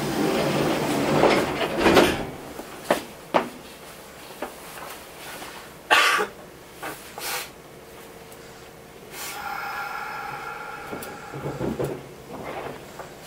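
Knocks and clunks inside a Kintetsu 8810 series train with no steady running rumble, the loudest about six seconds in. A steady pitched hum comes in about nine seconds in and lasts a couple of seconds.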